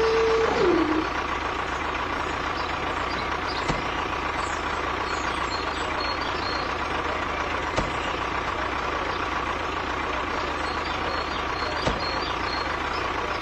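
Steady mechanical running noise, like a small engine or motor, with a faint steady whine and a few light clicks; it cuts off abruptly at the end. A steady tone at the start glides down and stops about half a second in.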